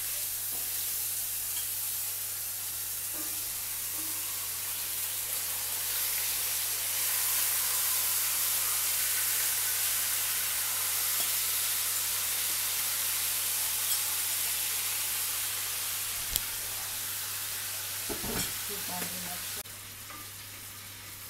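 Marinated whole squid sizzling steadily in hot oil in a preheated cast-iron pan, with a few clicks of metal tongs against the pan as the pieces are laid in and moved. The sizzle swells a few seconds in and drops suddenly near the end.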